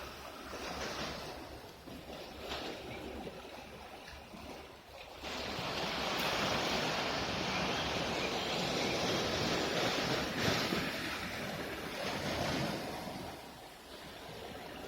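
Sea waves washing on the shore. A louder rush of surf begins suddenly about five seconds in and eases near the end.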